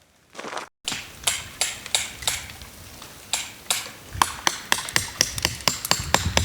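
A run of sharp, ringing knocks, hard blows on something solid, about three a second, coming faster from about four seconds in.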